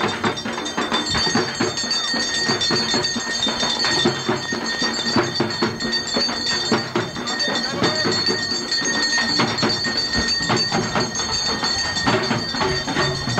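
Ceremonial temple drumming in a dense, fast, continuous rhythm, with steady high ringing tones over it.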